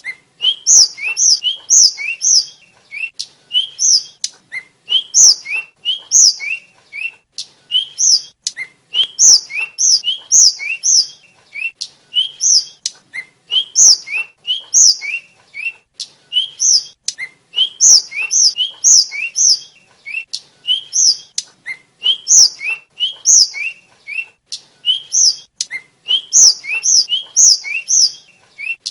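A tledekan (sikatan, a small flycatcher) singing nonstop: quick high chirps, each a short rising note answered by a higher falling one, repeated several times a second in unbroken runs.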